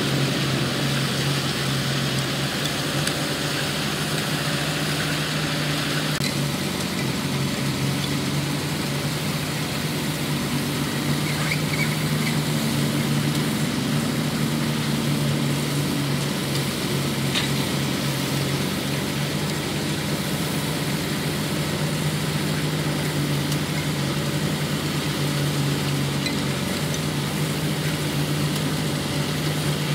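Diesel engine of heavy construction machinery running steadily with a constant low hum.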